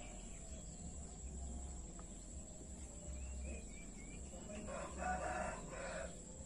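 A faint bird call held for about a second and a half, about five seconds in, with a few short faint chirps a little before it.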